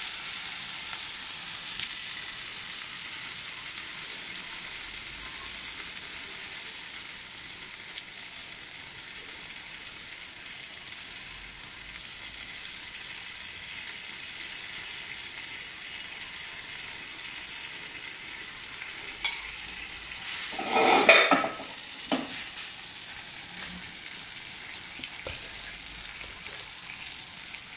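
Butter sizzling steadily on a hot tawa under a cheese-stuffed bread sandwich as it toasts, with a brief louder clatter about three quarters of the way through.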